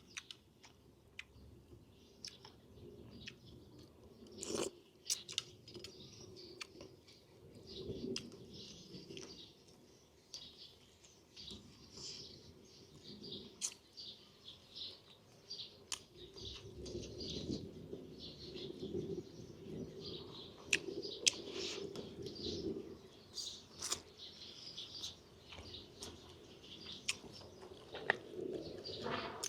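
A person chewing and biting food, with small clicks and crunches, while birds chirp in the background.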